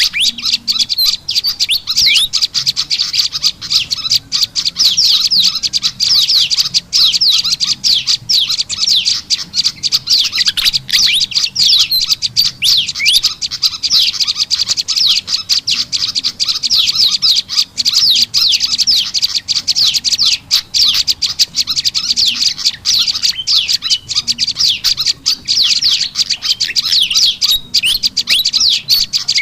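Bird-lure recording of prenjak lumut calls mixed with agitated kipasan (fantail) calls. It is a dense, unbroken stream of high chirps and rapid quick notes.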